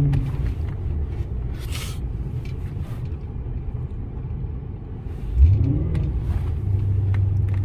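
Lincoln Town Car's V8 heard from inside the cabin while driving slowly through snow. The engine note falls away at first, then about five and a half seconds in the engine revs up sharply and settles into a steady drone.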